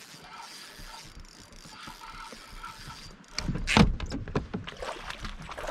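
Fishing reel being cranked with a faint gear whir, then about three seconds in a run of louder knocks and water splashing against a kayak.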